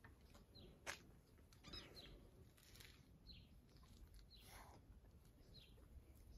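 Faint bird chirps: short, high, falling notes repeated every second or so, with a single faint click about a second in.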